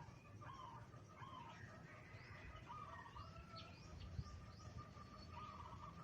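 Eight-month-old zebra dove with a mid-pitched voice cooing: a series of short notes near one pitch that turns into a fast trilling run about three and a half seconds in. Other small birds chirp higher up, and the whole is faint.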